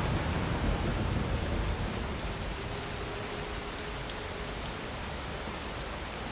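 Steady rain falling, with a low rumble of distant thunder in the first second that fades into the rain.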